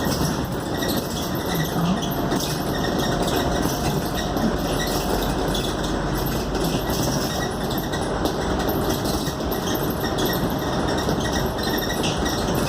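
Steady engine and road noise heard inside a moving Scania K280UD double-decker bus, with small clicks and rattles over it.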